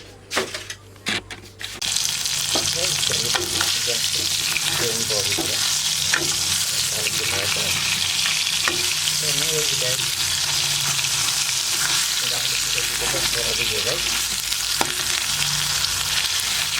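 Fish pieces frying in hot oil in a pan, sizzling loudly and steadily from about two seconds in, after a few short clicks.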